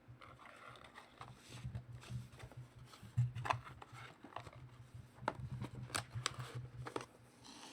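Trading cards being handled and flipped through, with several sharp clicks over a low steady hum.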